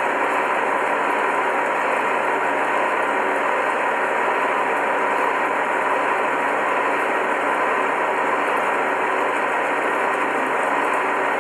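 Metal-cutting machine running steadily: a continuous even machining noise with a faint steady tone in it.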